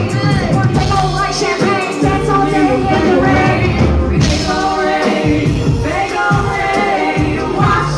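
Live hip-hop song played loud through a PA system: a heavy bass beat with a sung vocal melody over it.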